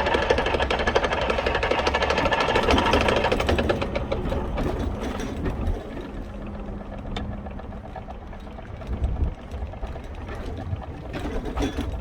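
Vespa P125X two-stroke engine with a VMC Stelvio 177 kit running, with a rapid clicking from the damaged primary/cush drive gear. The gearing was damaged by shifting at wide-open throttle the wrong way. The engine is louder at first and drops to a lower, steadier running level about four seconds in.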